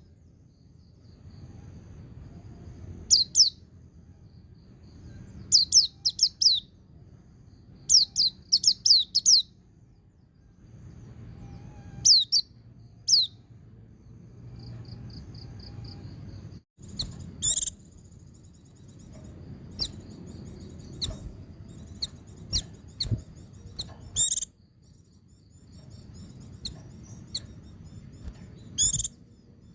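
White-eye (pleci) singing: bursts of rapid, high, downward-sweeping chirps in quick series, with softer twittering between them. After a brief break about 17 s in, the song turns to single sharp chirps and short trills.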